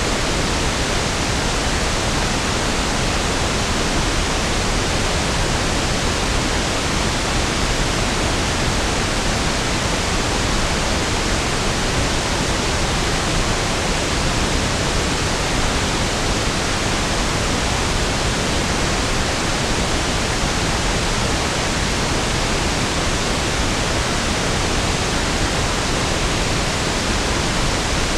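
Pink noise: a steady, even hiss with no changes.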